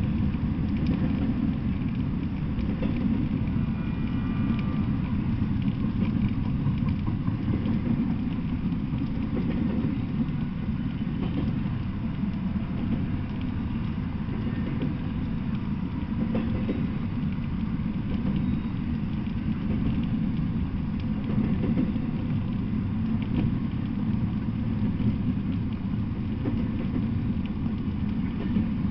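Double-stack intermodal freight train rolling past: a steady low rumble of steel wheels on rail, with clicking and rattling from the well cars.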